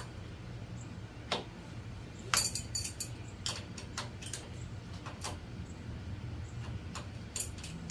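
Scattered light metallic clicks and clinks of hand tools working on a Honda CB750 engine, over a low steady shop hum, as the engine is turned by hand to check that every valve opens and none is tight.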